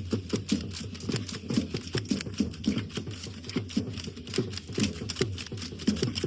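Dance drum beating a steady, quick rhythm of about two low strikes a second, with a dense rattling clatter of clicks over it, the kind of sound rattles or the dancers' steps make.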